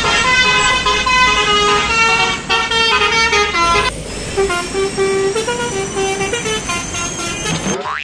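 Telolet bus horn, a multi-tone Basuri-style musical air horn, playing a quick melody of changing notes, often several pitches at once. It cuts off abruptly shortly before the end.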